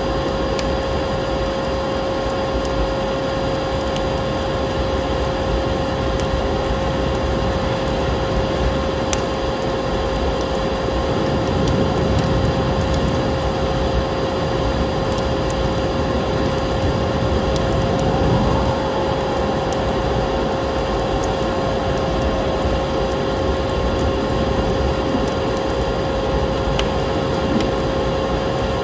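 Vacuum cleaner motor humming steadily at one even pitch, with wood fire crackling in small scattered snaps.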